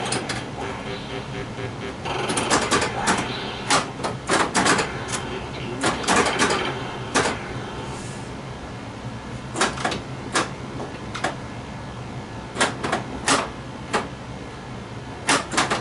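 Flash Gordon pinball machine in play: irregular sharp clacks, singly and in quick clusters, from the ball, flippers and targets. They sit over a steady low hum from the machine.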